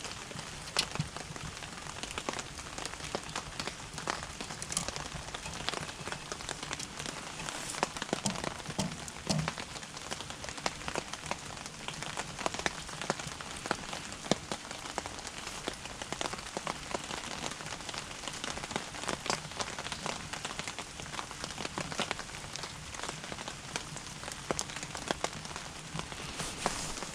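Firewood burning and crackling, with a steady hiss broken by frequent small sharp pops.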